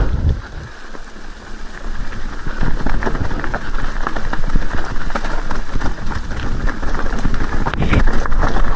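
Rain falling, with dense drops pattering on a nearby surface, heavier from about two seconds in.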